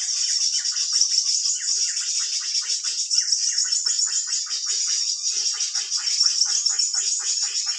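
Recorded drongo (srigunting) lure call played as a bird-trapping lure: a dense, fast chatter of short, rapid notes repeating many times a second without a break.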